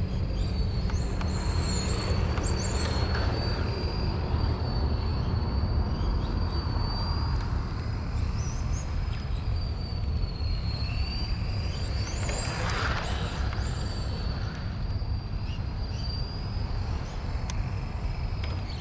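XRAY FK05 RC car's 13.5-turn brushless motor whining: a steady high whine that wavers slightly, with rising and falling sweeps as the car speeds up and slows, over a continuous low rumble.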